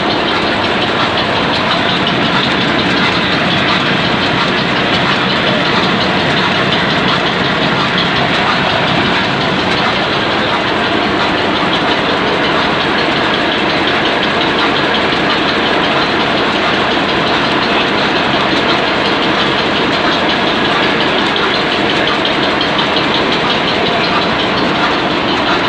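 Ruston Hornsby class HRC diesel stationary engine running steadily.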